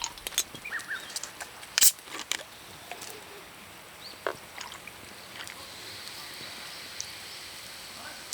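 Monjayaki cooking over a campfire: a few sharp clicks and taps of metal utensils, the loudest about two seconds in, then a faint steady sizzle.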